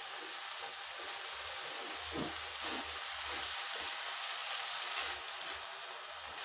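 Chopped carrot, capsicum and cabbage sizzling steadily in a pan as they stir-fry.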